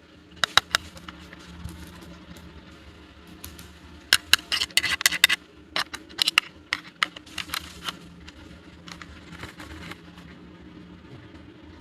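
Small plastic toy pieces being handled and set down: irregular clicks and taps in quick clusters, busiest in the middle, over a faint steady hum.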